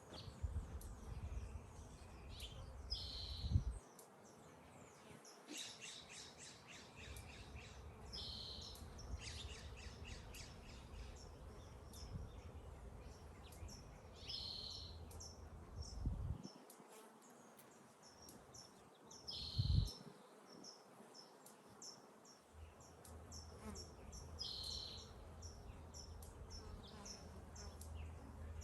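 Honeybees buzzing around the hives, with a bird repeating a short high call every five or six seconds. Under it runs a low rumble, broken by a few bumps, the loudest about 20 seconds in.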